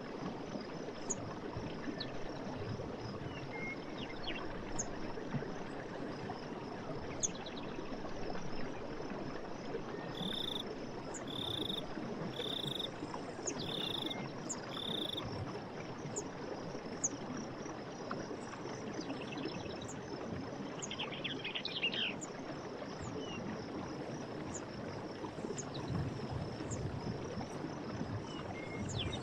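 Steady rush of running stream water with birds chirping over it: thin high chirps about once a second, a run of five short, evenly spaced calls about ten seconds in, and a brief trill around twenty seconds in.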